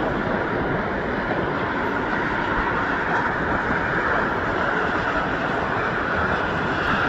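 Jet airliner engines running, a steady loud rushing noise with a faint band of whine in it.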